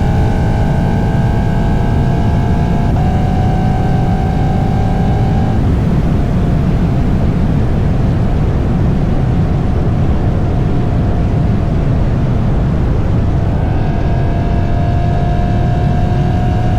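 Lexus exhaust running through a tunnel: a loud, steady low rumble with a higher droning tone that steps up in pitch twice in the first six seconds, fades away, and comes back about three seconds before the end.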